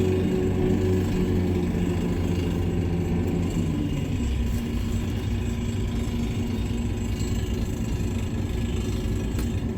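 Heavy-equipment diesel engine running, its revs dropping over the first four seconds or so before it settles into a steady low rumble.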